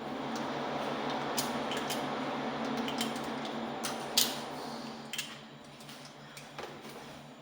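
Clicks and clinks of small metal parts being handled, the sharpest about four seconds in, over a rushing hiss that fades after about five seconds and a steady low hum.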